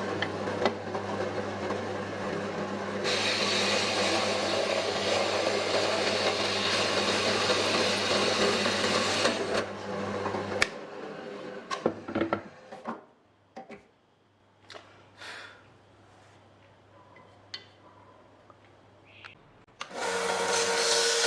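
A small electric power tool running on wood with a steady motor hum, which stops a little before halfway. A few light knocks and handling sounds follow, then the tool starts up again near the end.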